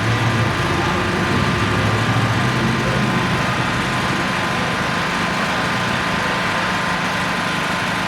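An engine running steadily with a low hum, the deeper part of the hum fading away over the first few seconds.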